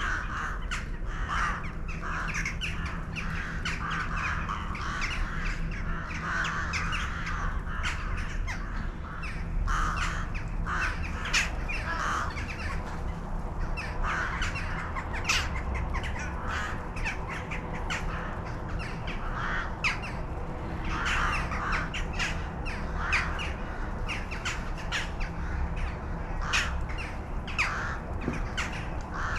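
A flock of birds calling continuously, many short calls overlapping one after another, over a low steady hum.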